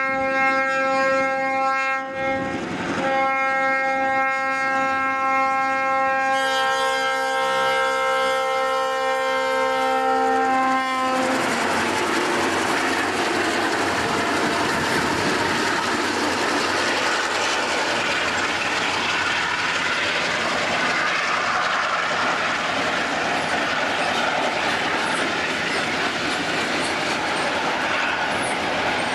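Conrail diesel locomotive's multi-note air horn sounding for about eleven seconds, with a short break about two seconds in and a change in its notes around six seconds in. After that comes the steady rumble and clatter of the train's cars rolling past.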